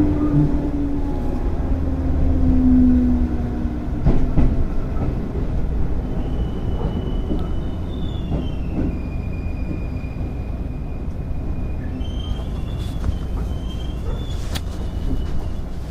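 Running sound of a 205 series 0 electric train with field-added excitation control: a steady rumble of wheels on the rails with a few clicks over rail joints and a motor hum in the first few seconds. From about six seconds in, a thin high wheel squeal comes and goes.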